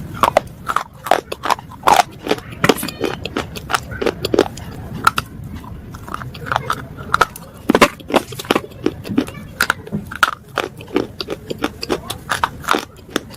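Brittle pieces of slate being crunched: a dense, irregular run of sharp cracks and snaps, several a second.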